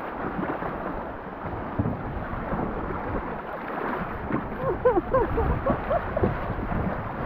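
Wind buffeting the microphone outdoors, a steady rushing noise with low gusty rumbles, with faint distant voices in the middle.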